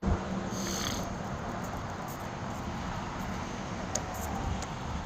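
Steady low rumble and hiss of outdoor background noise, with a few faint clicks and taps.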